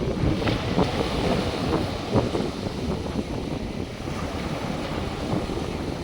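North Sea surf washing onto the beach, a steady rushing noise, with wind buffeting the microphone as a low rumble.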